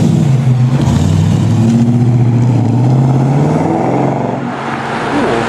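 Car engine accelerating past with a loud exhaust note, its pitch climbing steadily, then fading away near the end.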